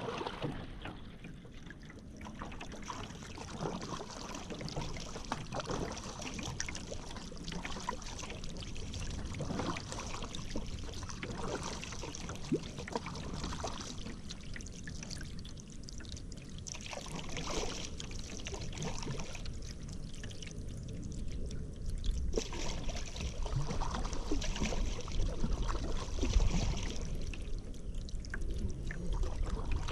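Paddle strokes in river water, with water splashing and trickling off the paddle blade.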